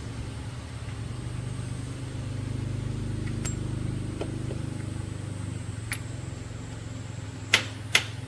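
An engine running steadily at low speed, then three sharp metal knocks in quick succession near the end.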